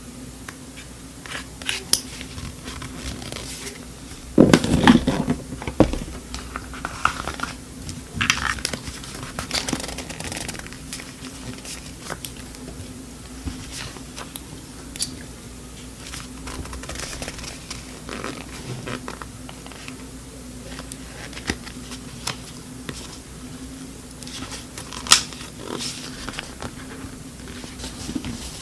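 Small handling sounds at a desk: paper crinkling and rustling with light taps and clicks, over a steady low hum. A louder rustling clatter comes about four to six seconds in.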